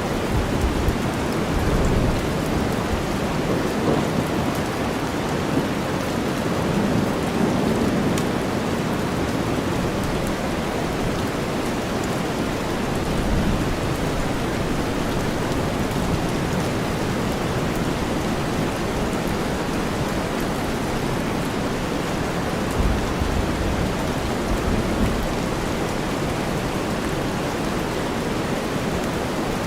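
Steady rain blended with deep white noise, with low rumbles of thunder swelling up now and then.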